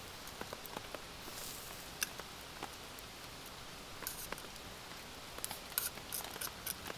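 Steady patter of rain with scattered small clicks and crisp bursts of eating close to the microphone: chewing and utensils on the dish, busiest in the second half.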